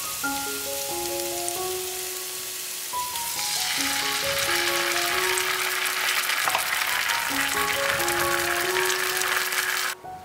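Chopped onions frying in oil in a non-stick pan, a steady sizzle that grows louder and denser about three seconds in, with tomato passata going into the hot pan, and cuts off just before the end. Light mallet-and-piano background music plays over it.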